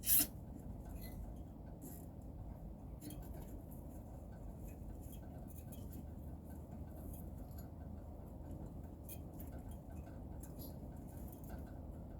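Small tools and parts being handled during repair work on an air-conditioner outdoor unit: one sharp click right at the start, then scattered light clicks and taps over a steady low background noise.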